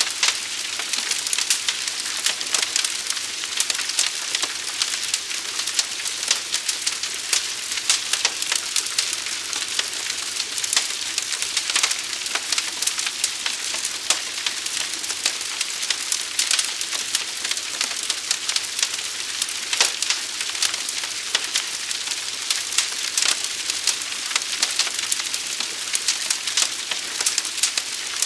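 Fire crackling: a steady hiss thick with many small sharp pops and snaps.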